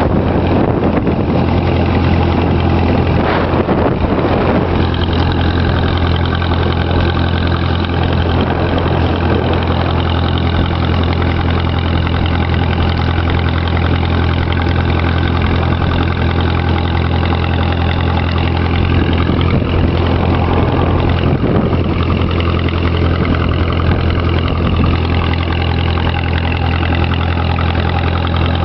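Tractor engine running at a steady speed while the tractor is driven along a road, its low note unchanging throughout.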